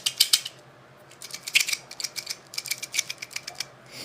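Small hard kitchen items clicking and rattling as they are handled, in three quick bursts of rapid clicks.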